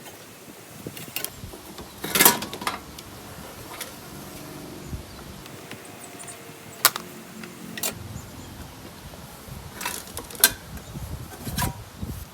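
Scattered metallic clinks and knocks from hand tools and engine parts being handled while a lawn mower engine is taken apart. The loudest comes about two seconds in, with others spread out over the rest of the time.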